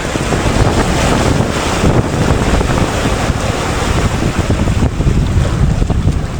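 Strong wind buffeting the microphone over waves and rushing water as a sailboat moves through rough, windy seas. A loud, steady rumble and hiss.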